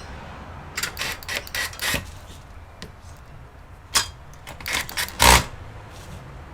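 Irregular clicks and knocks of hard objects being handled. There is a quick run of clicks between one and two seconds in, a few more around four to five seconds, and a heavier knock just after five seconds.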